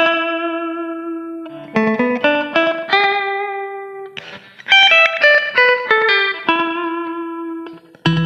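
Guitar music: single plucked notes and short phrases, each ringing on and fading, with brief pauses between phrases.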